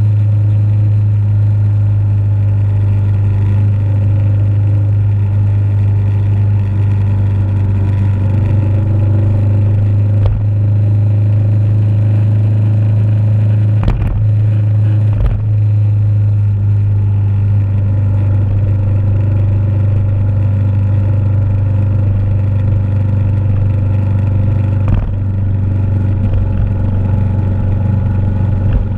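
Motorcycle engine running at a steady speed, its hum holding an even pitch throughout. Two brief knocks come about halfway through.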